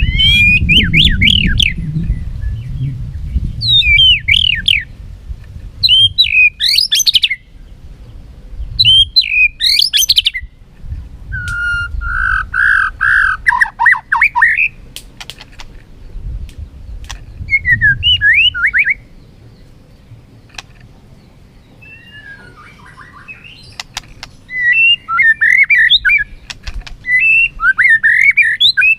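White-rumped shama giving its fighting song: loud bursts of quick, sweeping whistled notes in varied phrases with short pauses between them, and a quieter gap about two-thirds of the way through.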